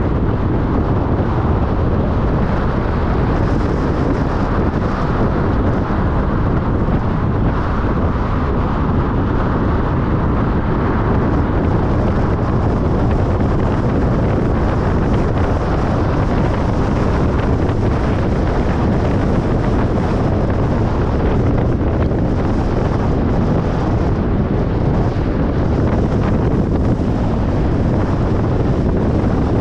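Steady road noise of a car driving on a motorway: a constant low rush of tyres and wind with no distinct events.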